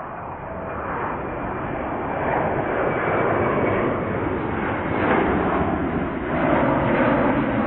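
Airbus A330 twin jet engines at takeoff power: a steady rushing roar that grows louder as the aircraft approaches.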